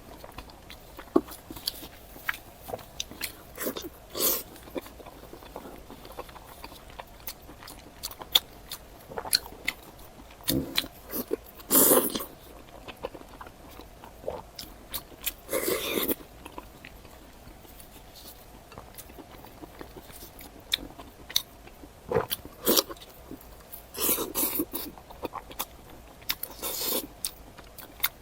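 Close-miked eating sounds: a person biting and chewing food, with irregular wet smacks and clicks and a few longer, louder bites.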